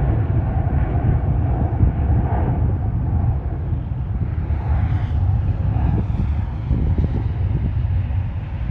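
Airbus A320neo jet engines running during the takeoff roll: a loud, steady, deep rumble with a hiss above it, cutting in suddenly.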